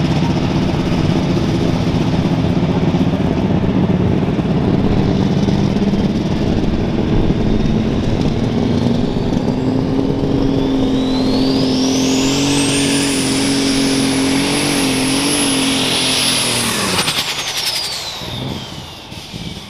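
Light super stock pulling tractor's turbocharged engine running flat out under the load of the sled. About halfway through, a high turbocharger whistle rises and holds. Near the end the engine shuts off and the whistle winds down.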